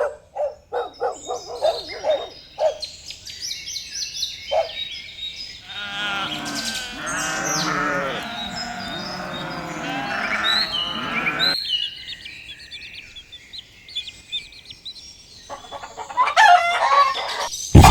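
Farm animal calls, mostly bird chirps and chicken-like clucking: a quick run of short, evenly spaced calls at first, then a dense chorus of many overlapping calls in the middle, thinning to scattered high chirps near the end.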